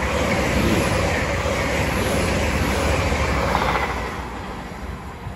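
A GWR passenger train running through the station with a steady rumble. Its noise dies away from about four seconds in as it moves off.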